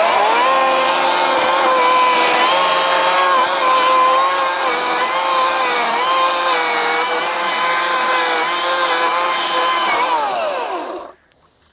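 Ryobi 40V brushless cordless chainsaw spinning up and running at full speed into a tree stump, a steady electric motor and chain whine whose pitch dips slightly now and then under the cut. Near the end it winds down and stops.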